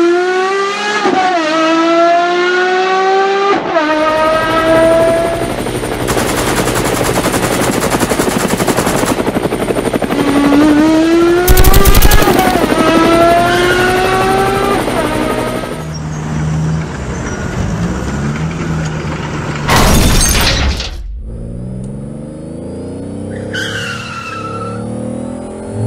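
Dubbed-in sound effects of a car engine revving hard in rising runs that drop back and climb again, as if shifting up through gears, over a noisy rumble. A loud blast comes about twelve seconds in and another about twenty seconds in, and a short high screech falls away near the end.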